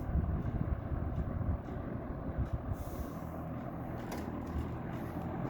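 Vintage Lakewood box fan running on its low setting: a steady motor hum with the rush of the blades, and the back grate vibrating against the frame.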